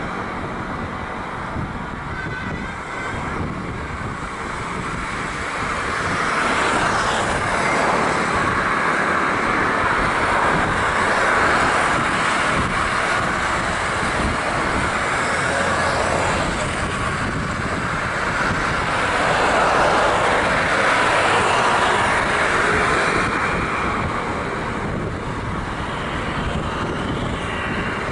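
Airbus A320-232 jet engines (IAE V2500) on landing approach: a broad rushing jet noise that swells about a quarter of the way in and holds until it eases near the end. Wind buffets the microphone underneath.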